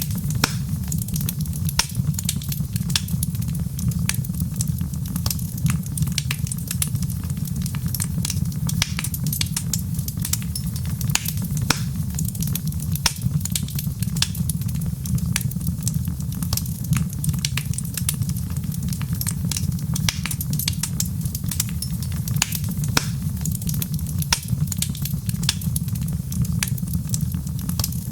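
Wood fire crackling steadily in a fireplace: many small, sharp pops and snaps over a low, even rumble.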